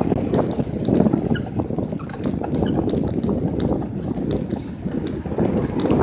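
Wind buffeting the microphone while riding a bicycle, with the bike rattling and clicking throughout.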